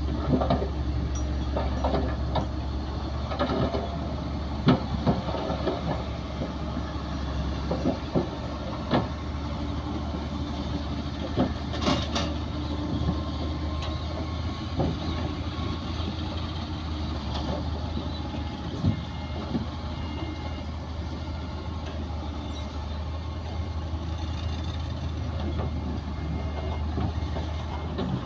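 Bulldozer's diesel engine running steadily, with scattered sharp clanks and knocks throughout.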